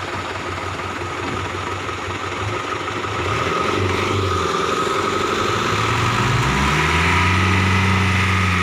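Vehicle engine running low, then revving up from about five seconds in and holding at higher revs, with a steady high whine underneath.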